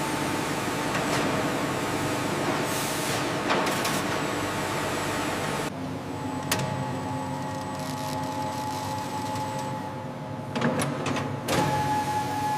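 Woodworking machinery running: a steady mechanical hum with a thin high whine, changing to a different, quieter machine sound about six seconds in, with a few knocks near the end.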